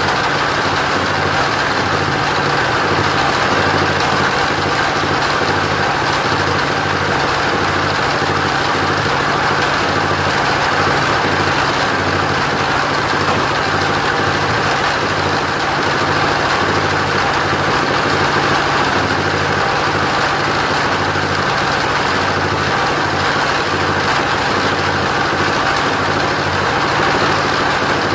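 Engine of a portable sawmill running steadily at an even speed, with no change in load.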